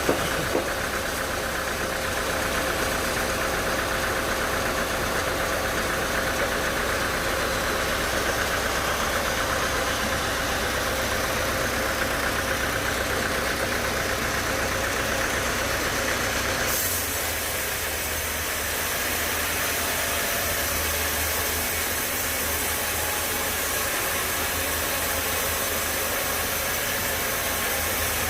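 Sawmill machinery running steadily with a constant mechanical drone, its sound changing abruptly about seventeen seconds in.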